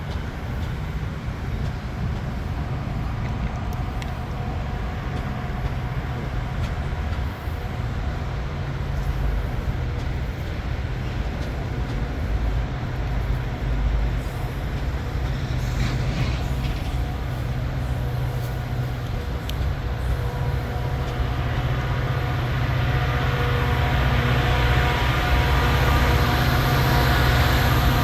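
Metra F40PH diesel locomotive, with its EMD 16-cylinder 645 engine, running as it shoves a train. The engine's low throb is steady, then grows louder over the last several seconds.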